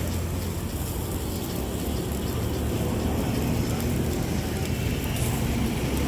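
Street ambience: a steady wash of road traffic noise with engines running.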